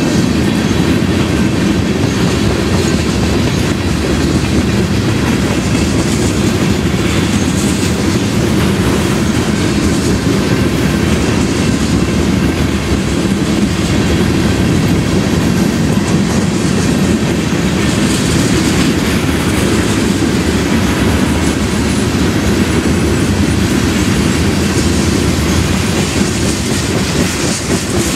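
BNSF freight train's cars (a tank car and covered hoppers) rolling past, a loud, steady noise of steel wheels on rail.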